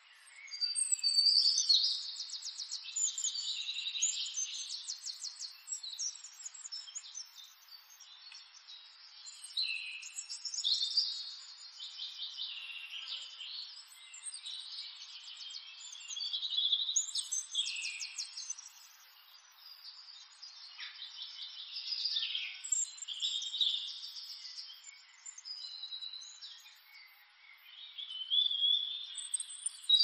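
Birds singing: repeated phrases of quick chirps and rapid trills, a fresh burst every few seconds.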